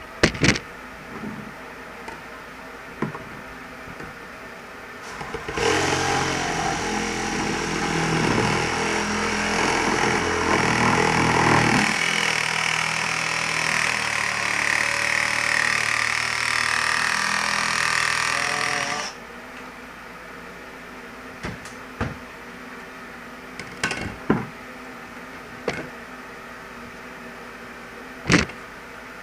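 Power saw running for about 13 seconds while cutting black ABS drain pipe, its tone shifting about halfway through; short knocks and clicks of the pipe being handled before and after.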